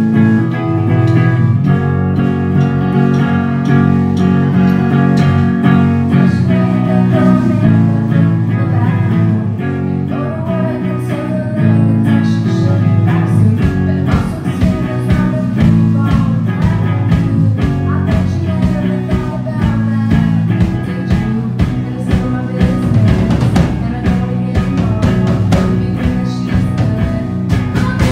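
Rock band playing live: electric guitar and drums with a sung vocal line. The drum hits grow more prominent from about halfway through.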